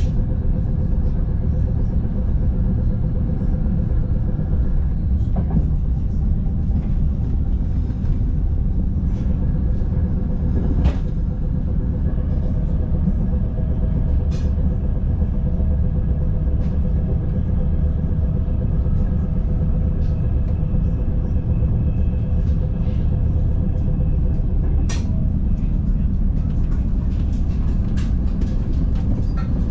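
Interior of a Frecciarossa ETR 500 high-speed train coach while running: a steady low rumble of the wheels on the track, with a faint steady hum and occasional light clicks.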